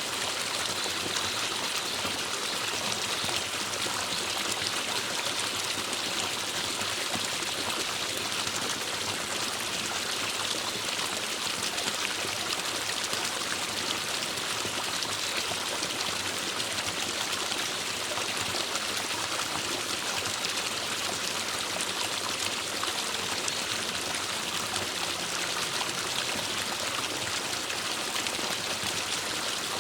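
Forest stream flowing steadily over rocks: a constant rush and trickle of running water.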